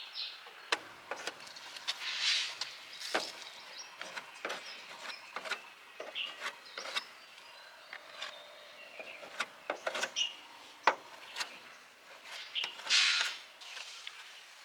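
Workshop handling noise: scattered clicks and knocks of hard parts or tools being picked up and set down, with a scraping sound about two seconds in and another, louder one near the end.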